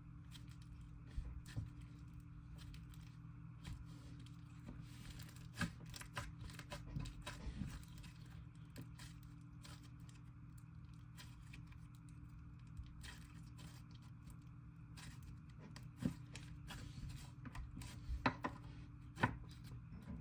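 DIY clay slime being kneaded and stretched by hand, with scattered sticky clicks and tearing crackles. The sharpest clicks come in the middle and near the end, over a faint steady hum.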